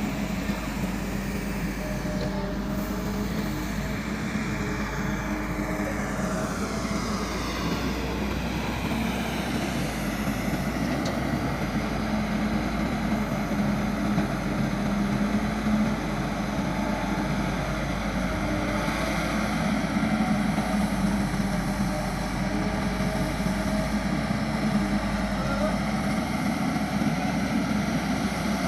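Caterpillar MS120-8 hydraulic excavator's diesel engine running steadily as the machine works, with a whine that falls in pitch over the first several seconds.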